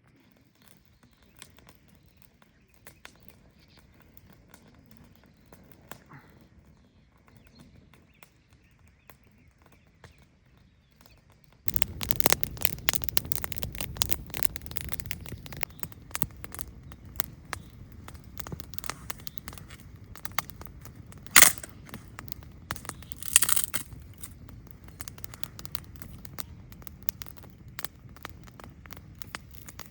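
Campfire crackling: a quiet stretch of faint ticks gives way abruptly to dense crackling, with two loud pops about two seconds apart later on.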